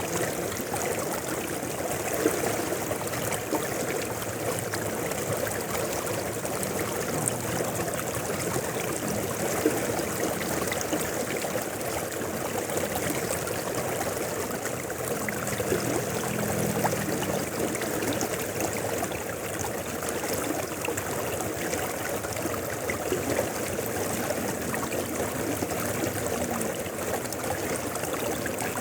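Mountain river flowing steadily: an even rush of water with small splashes and ticks scattered through it.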